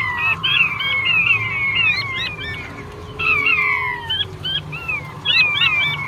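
Male king quail (blue-breasted quail) calling: a dense run of short, high whistled notes that slide downward and hook, overlapping one another. They thin out briefly midway, then crowd together again.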